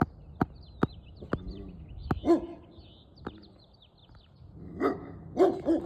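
A dog barking: one short bark about two seconds in and three more in quick succession near the end. Birds chirp faintly, and a few sharp clicks come in the first two seconds.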